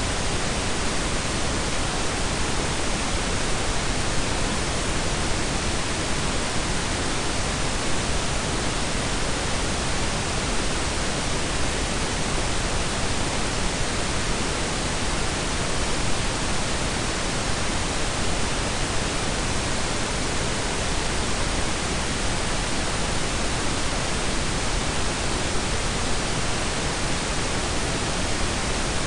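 Steady synthetic blend of pink and brown noise: an even hiss with a deep rumble beneath, unchanging throughout.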